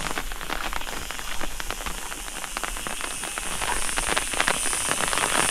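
Rain falling steadily, a dense patter of drops, with a high hiss that grows stronger in the second half.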